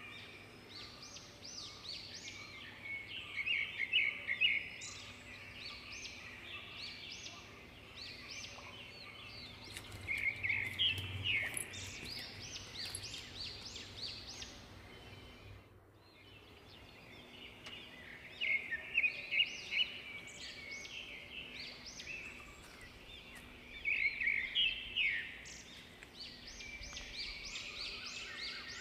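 Birds calling in repeated bursts of rapid, chattering notes, with the loudest bursts about four, eleven, nineteen and twenty-four seconds in, over a faint steady outdoor background.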